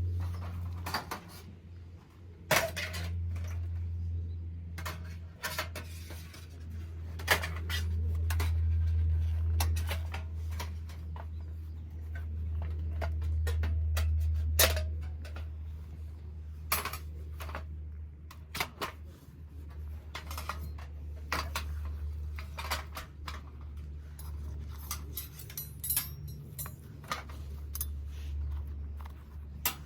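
Scattered light clinks and knocks of cookware and utensils being handled, dozens of separate strikes at an uneven pace, over a steady low rumble that swells and fades.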